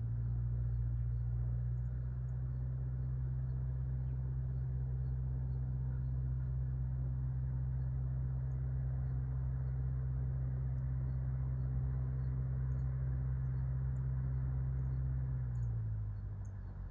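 Steady low engine hum at one constant pitch, fading out near the end, with faint high bird chirps over it.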